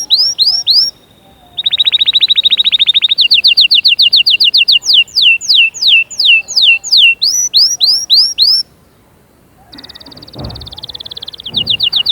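Domestic canary singing in tours: runs of repeated falling whistles at about four a second, a fast rolling trill, more repeated notes, then after a short pause a buzzy note leading into another fast trill.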